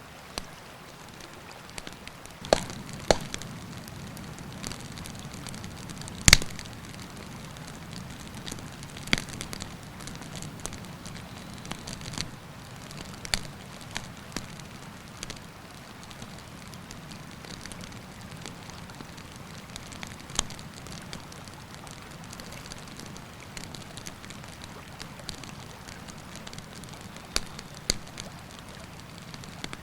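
Wood campfire crackling, with irregular sharp pops and snaps, the loudest about six seconds in, over a steady low rush that grows a little fuller a couple of seconds in.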